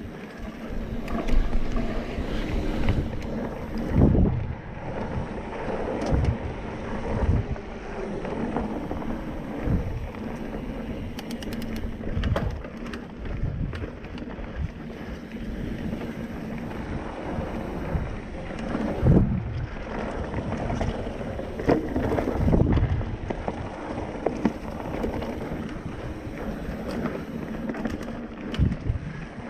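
Mountain bike riding a dirt singletrack trail: wind buffeting the microphone over the rumble of the tyres, with irregular thumps and rattles as the bike hits bumps.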